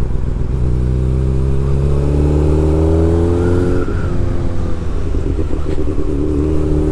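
Honda CB600F Hornet's inline-four engine accelerating. Its pitch rises for about three seconds, breaks off briefly with an upshift just before the four-second mark, then runs on at a steadier, lower pitch.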